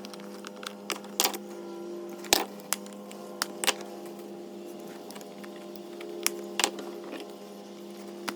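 Scattered light clicks and taps of small metal parts and tools being handled, over a steady electrical hum.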